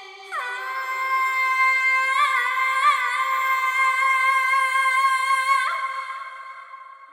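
Woman singing one long held note in a Middle Eastern vocal style, sliding down into it and adding small wavering ornaments partway through before it fades away.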